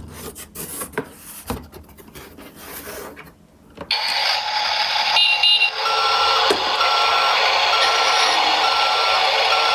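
Light plastic clicks and rattles, then from about four seconds in a toy garbage truck's electronic sound effect through its small speaker: a steady engine-like noise with a short beep repeating a little more than once a second, like reversing beeps.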